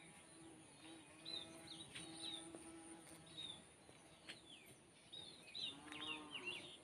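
Faint birds chirping in the background, many short quick calls scattered throughout, over a steady thin high whine and a faint low hum.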